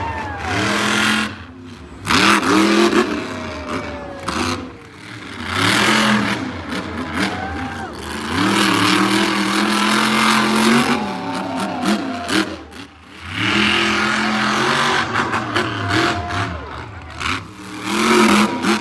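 Monster truck engine revving hard in repeated throttle bursts, its pitch climbing and falling with each one, with brief drops in between.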